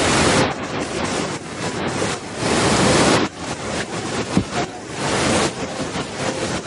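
Waterfall: a steady rush of falling water that swells and eases every second or so.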